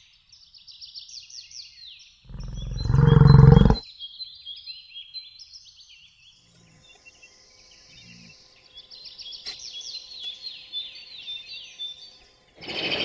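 Small birds chirping continuously in quick, high notes that fall in pitch. About two seconds in, one loud, low animal call lasts about a second and a half.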